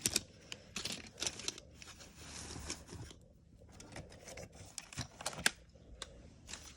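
Die-cast toy cars and their carrying case being handled: scattered sharp clicks and clinks, with a stretch of rubbing or scraping about two seconds in.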